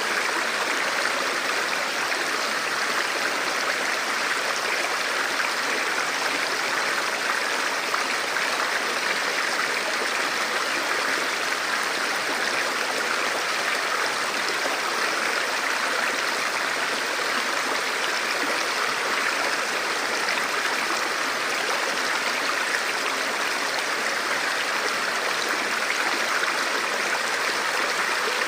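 Forest river flowing over rocks: a steady, unbroken rush of water with no other sound standing out.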